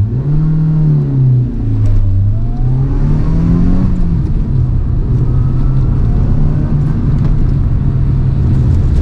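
Toyota AE111 Trueno's four-cylinder engine revving up and down over the first few seconds, then holding at steady revs.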